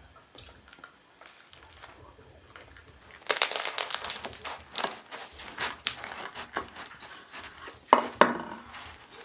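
Crinkling, crackling rustle of something being handled and crumpled, starting about three seconds in. Two sharp knocks come near the end.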